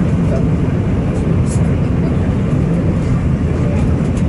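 Steady low rumble of a train running at a station platform, with indistinct voices under it and a few faint high ticks.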